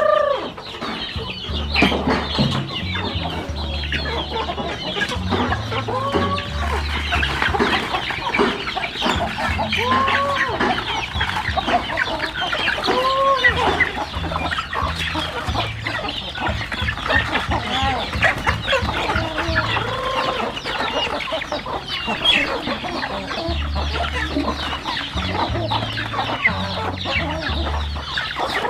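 A flock of chickens clucking continuously, with one bird giving a rising-and-falling call every few seconds.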